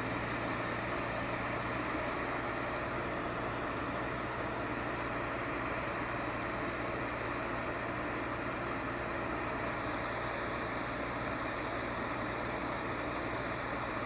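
Heavy vehicle's engine running steadily under an even wash of noise, with a constant low hum and no revving.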